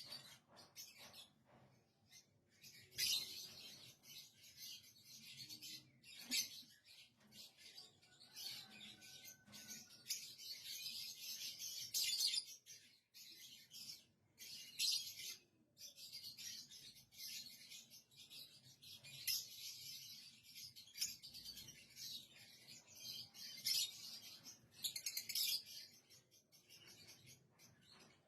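Lovebirds chirping: rapid, high, chattering chirps in overlapping bursts, some louder and sharper than others.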